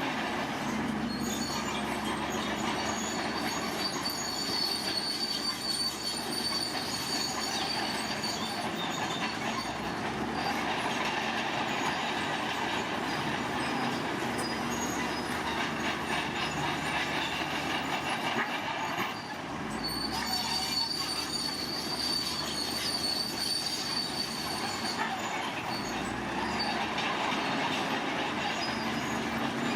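Heavy construction machinery running steadily with a high, thin metallic squeal, of the kind bulldozer crawler tracks make. The squeal sounds for several seconds near the start and again about two-thirds of the way through.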